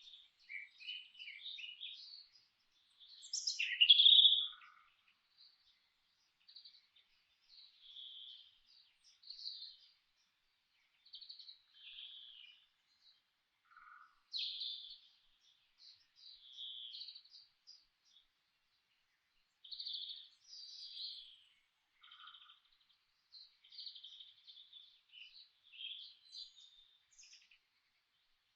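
Songbirds chirping and singing in short, high phrases with brief pauses between them, one louder phrase about four seconds in.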